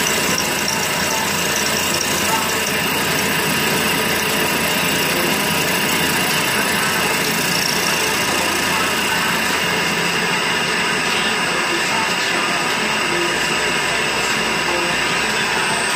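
CNC milling machine running steadily as it mills a collet holder: a constant machining noise with a few steady high tones over it.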